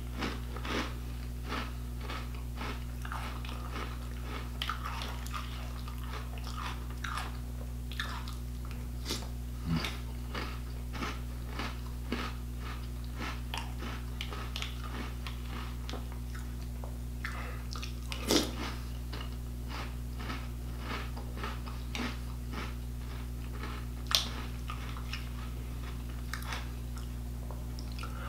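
A person crunching and chewing mouthfuls of cereal, with many short crackling bites throughout and two louder sharp clicks about two-thirds and five-sixths of the way through. A steady low hum runs underneath.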